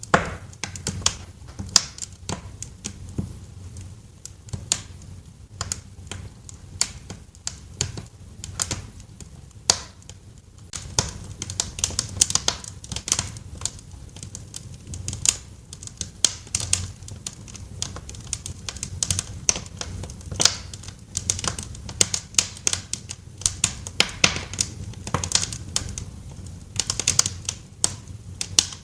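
Wood fire crackling in a fireplace: irregular sharp pops and snaps over a low steady rumble of the flames, the pops coming thicker from about ten seconds in.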